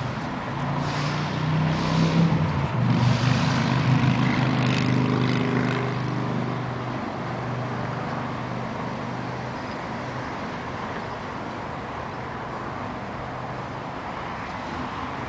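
A 1972 Ford F-100 pickup's 302 V8 running. It gets louder for a few seconds about two seconds in, then settles back to a steady, quieter run.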